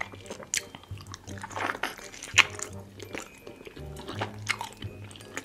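Close-miked eating of rotisserie chicken: wet chewing and lip smacks, with one sharp, louder smack about two and a half seconds in, over background music with a repeating bass line.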